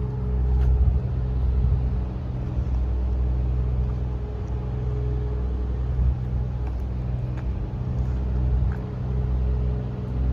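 A vehicle engine running steadily: a low rumble with a steady hum.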